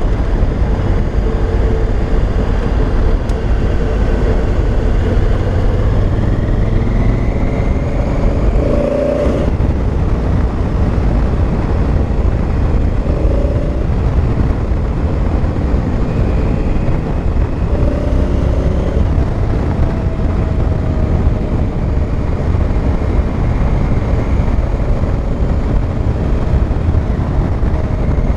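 Honda Africa Twin's parallel-twin engine running under way on a gravel road, its revs rising and falling a few times as the bike speeds up and slows.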